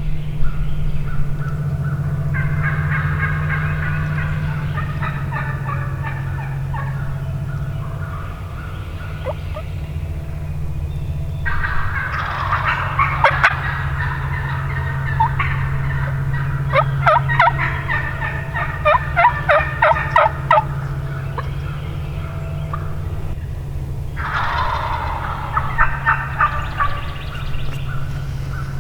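Wild turkeys gobbling in the spring woods: four or so rattling gobbles and bursts of rapid calling a few seconds apart, some overlapping, over a steady low hum.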